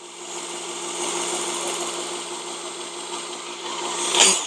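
Work Sharp Ken Onion Edition belt knife sharpener running, its motor humming steadily under the hiss of the moving abrasive belt, while a knife blade is drawn lightly across the belt for finishing passes. A brief louder scrape comes about four seconds in, and the sound stops abruptly at the end.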